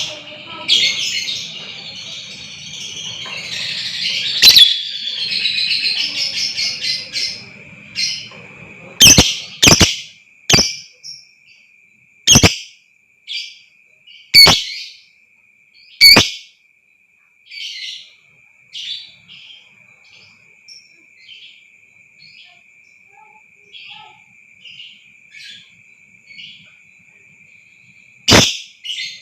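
Lovebirds calling: a fast, dense chattering trill for the first several seconds, the long 'ngekek' chatter. It then breaks into single sharp, shrill calls a second or two apart that thin out and grow fainter, with one more loud call near the end.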